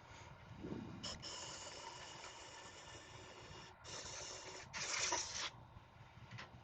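Wood turning on a lathe with a gouge cutting: three stretches of hissing cut, the last one the loudest, over the faint hum of the running lathe.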